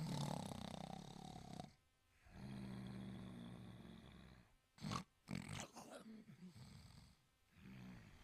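Italian greyhound snoring in its sleep: several slow snoring breaths, some with a low pitched buzz, and a quick cluster of short sharp breaths about five seconds in.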